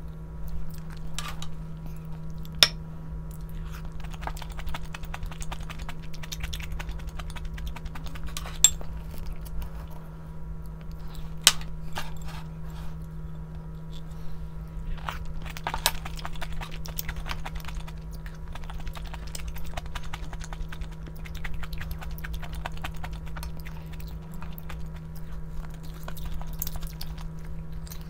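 A person chewing and eating food, with scattered sharp clicks of utensils against a dish, the loudest three in the first half. A steady low hum runs under it.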